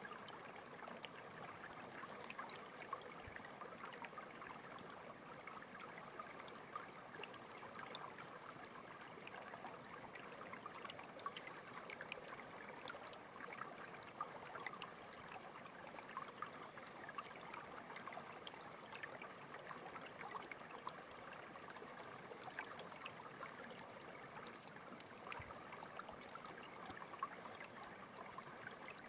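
Clear water of a small stream running and trickling steadily, with many small splashes and droplet ticks over it.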